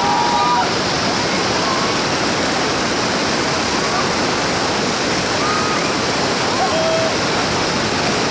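Rushing whitewater of river rapids, a loud steady roar of water, with faint voices calling now and then.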